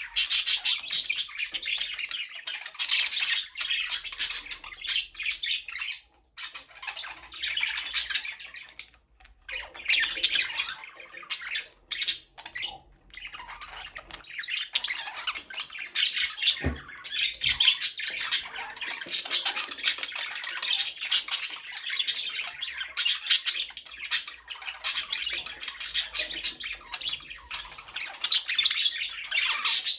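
Budgerigars chirping and chattering in a fast, busy warble, with short lulls now and then.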